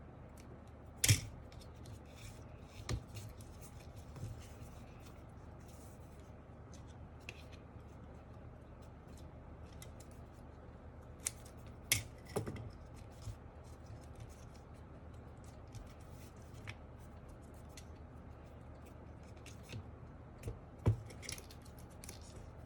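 Scissors snipping, most likely trimming foam sheet for the keyboard: a few sharp snips about a second in, around twelve seconds in and near the end, with small clicks and light rustling between.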